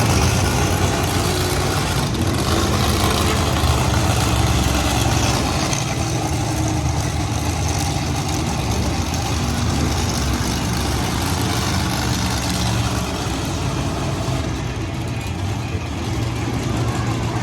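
Heavy vehicle engine running steadily with a deep, low sound under a broad, even din.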